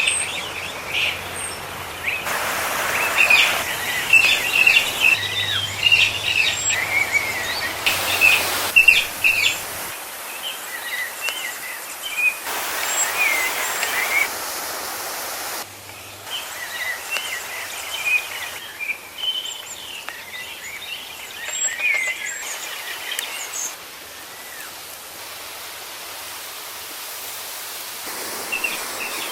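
Many birds chirping and singing over a steady background hiss, with the background changing abruptly every few seconds.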